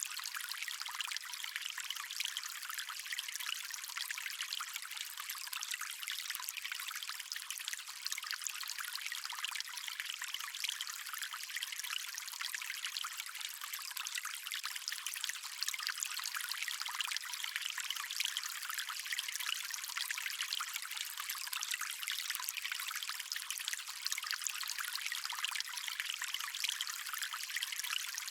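Water stream flowing steadily: an even, high rushing hiss of running water with no deep rumble beneath it.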